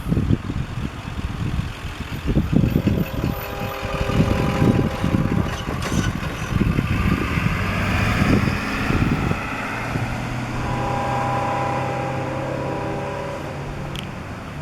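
Diesel locomotives of a CSX freight train approaching, with steady held engine tones that come in twice, and wind gusting on the microphone.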